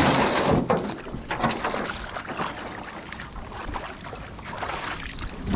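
Grumman 129 solo canoe being put back in and paddled off: water sloshing around the hull, with scattered knocks and clunks against it, loudest in the first second.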